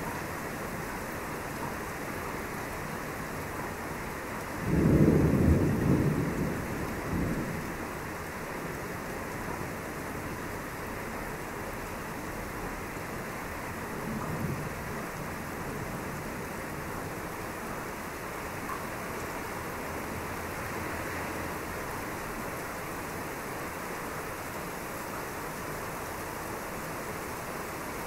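Thunder rolling over steady rain: a loud low rumble about five seconds in that lasts about three seconds, then a fainter rumble around fourteen seconds.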